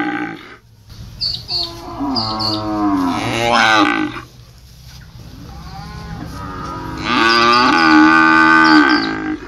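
Cow mooing: three long moos. The first runs from about one to four seconds in and rises in pitch at its end, a softer one comes around six seconds, and a loud, drawn-out one starts at about seven seconds.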